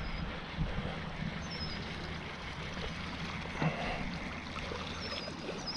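Steady wind rumble on the microphone, with faint water noise from the pond.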